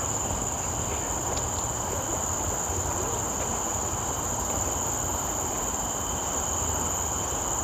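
Steady high-pitched drone of a forest insect chorus, unbroken throughout, over a low rumble.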